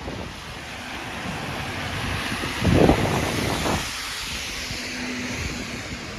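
A vehicle passing on a wet street: a tyre hiss swells for about three seconds, peaks with a low rumble, then fades.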